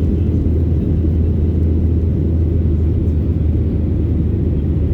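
Aircraft engines and rushing air during takeoff: a steady, loud, low rumble that does not change.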